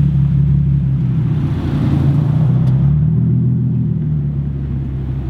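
Nissan 370Z's 3.7-litre V6 running through catless test pipes and a single-exit race exhaust, a steady deep exhaust drone with small swells in level.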